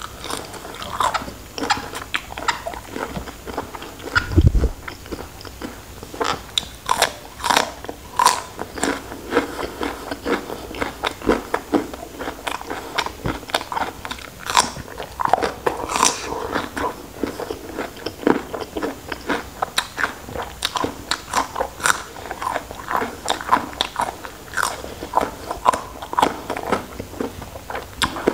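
Close-miked eating of raw shrimp: repeated crisp, crunchy bites and wet chewing in an irregular run, with a single low thump about four seconds in.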